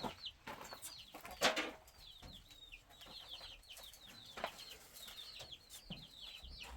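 Chicks peeping: a steady run of short, high, falling chirps, several a second. A few sharp knocks come through, the loudest about a second and a half in.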